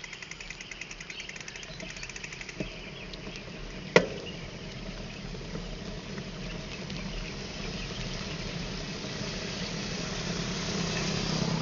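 Rapid, evenly spaced insect chirping for the first few seconds, a single sharp click about four seconds in, then a motorcycle engine running that grows steadily louder toward the end.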